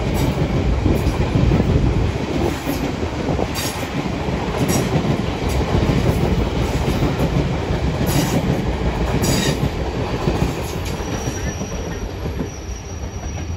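A South Western Railway electric passenger train passes close by, its wheels rumbling steadily on the rails. A few sharp clicks sound as the wheels cross track joints, and a faint thin squeal comes in near the end.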